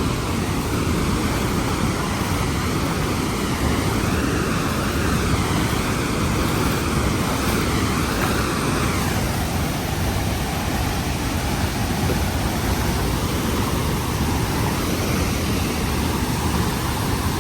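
Large waterfall roaring, a steady rush of falling water.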